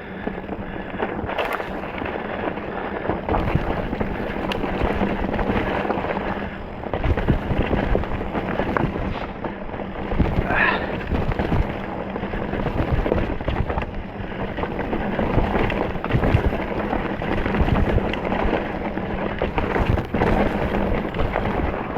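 Specialized Stumpjumper mountain bike riding over rocks and roots: a constant rattle of knocks and thuds from the tyres and frame, with wind buffeting the microphone.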